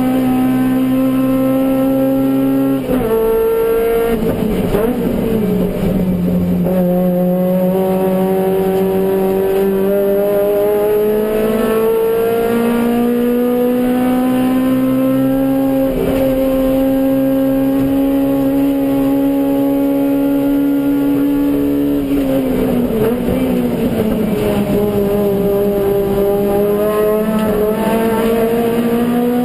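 Suzuki Swift GTi's G13B 1.3-litre four-cylinder engine running hard in a race, its pitch climbing slowly over long stretches. It drops with rough, uneven patches about three seconds in and again about two-thirds of the way through, as the car slows and changes down for corners.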